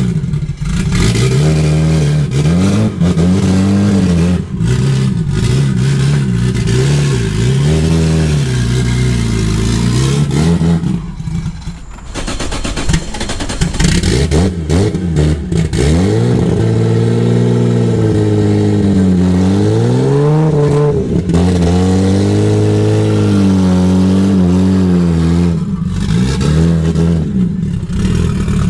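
A vehicle's engine being driven, its pitch rising and falling again and again as it accelerates and shifts through the gears, with a brief easing off about eleven seconds in.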